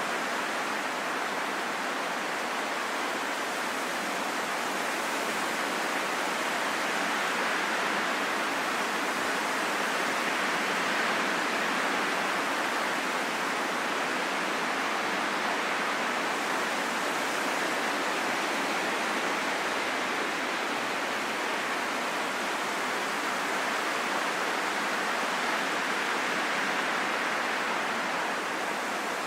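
Steady, calm wind: an even hiss with little low rumble and no howl, swelling only slightly in level.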